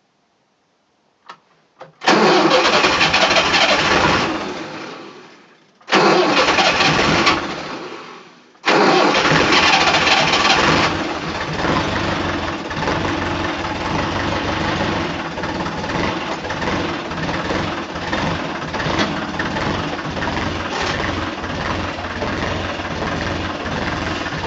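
Perkins diesel tractor engine cold-started in freezing weather after glow-plug preheating. After a click, it gives two loud bursts that die away, then catches on the third try about nine seconds in. It runs fast for a couple of seconds, then settles into a steady idle.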